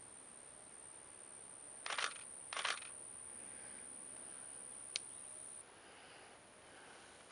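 Camera shutter clicking twice, about two-thirds of a second apart, then a single sharp tick a few seconds later, over a faint steady high whine that drops off partway through.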